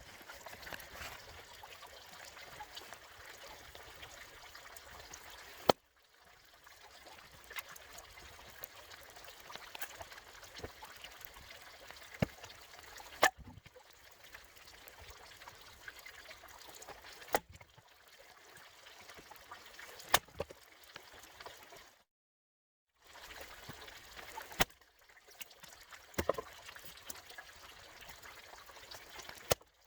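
Splitting maul striking pine logs, sharp single knocks a few seconds apart over a steady background hiss.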